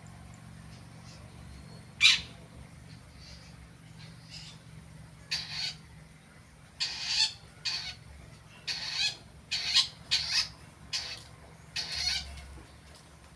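Long-tailed shrike (cendet) practising its song: a string of short, harsh calls, one loud call about two seconds in, then quick runs of calls through the second half. A low steady hum runs underneath.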